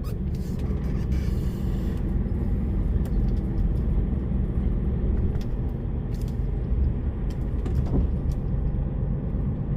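DAF lorry's diesel engine running under way, heard from inside the cab as a steady low rumble with road noise and a few short knocks or rattles.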